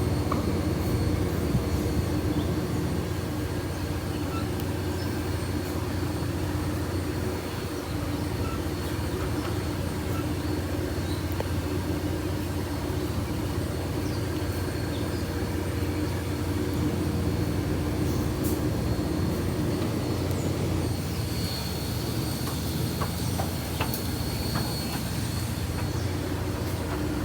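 A train running: a steady low hum with a steady tone underneath, unchanging throughout.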